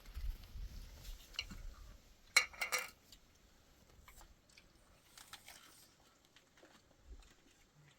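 Scattered light knocks and clinks of objects being handled, with a quick cluster of louder knocks about two and a half seconds in. A low rumble runs through the first two seconds.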